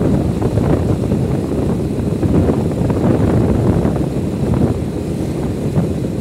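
Wind buffeting the microphone over the rumble of a moving motorbike, a steady low roar with no let-up.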